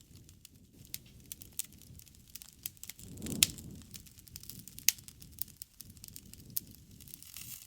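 Wood campfire crackling: scattered sharp pops and snaps over a soft low rumble of the flames, with a louder flare-up and pop about three seconds in and another sharp pop about five seconds in.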